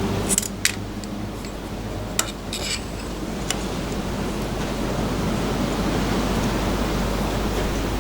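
Milling machine running as it cuts a metal block, a steady noise that grows slightly louder through the second half. A few sharp clicks sound in the first three seconds.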